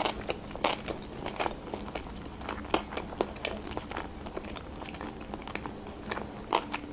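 A person chewing a mouthful of sushi roll close to the microphone, with many irregular sharp clicks and smacks of the mouth.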